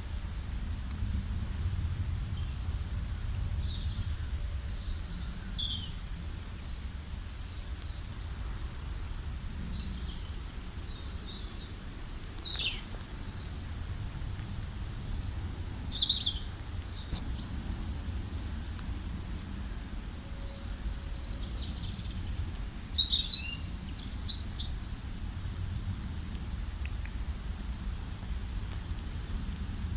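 Songbirds chirping and singing in short, scattered high phrases, with the loudest bursts about five seconds in, around the middle, and a busy flurry near the end, over a low steady rumble.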